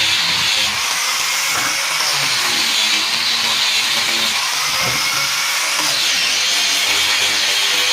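Power tool running steadily on the wood of a cricket bat, a continuous high hissing whine.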